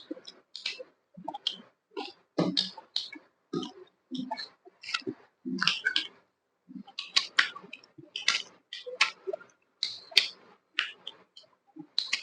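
Close-miked mukbang eating sounds: a person chewing meat, with an irregular run of short mouth clicks and smacks, about two or three a second.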